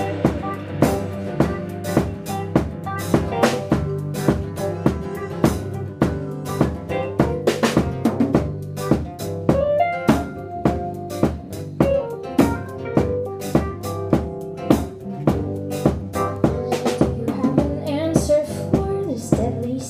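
Live band in an instrumental passage without vocals: a drum kit keeps a steady beat of snare hits, rimshots and kick drum over sustained low bass notes.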